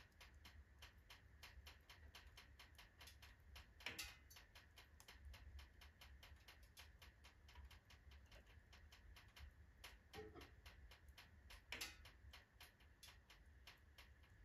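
Faint crackling of a wood fire burning in a fireplace stove: a stream of small irregular ticks, with two louder pops about four seconds in and near the end.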